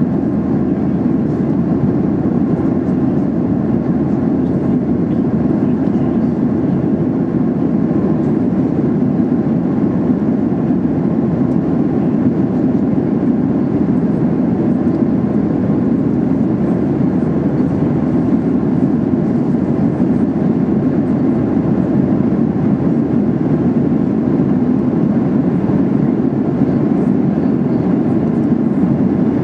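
Steady cabin noise of a Boeing 737-800 in flight, heard from inside the passenger cabin: an even, low rushing drone of the engines and airflow that does not change.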